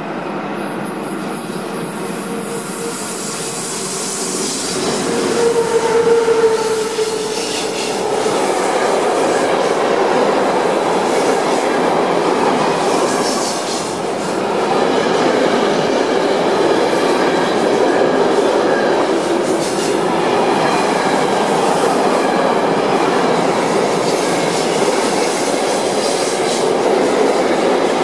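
A pair of SBB Re 4/4 and Re 6/6 electric locomotives hauling a container freight train passes close by. Their pass brings a humming tone that peaks about six seconds in. After that comes the steady rumble and clatter of loaded container wagons rolling past on the rails.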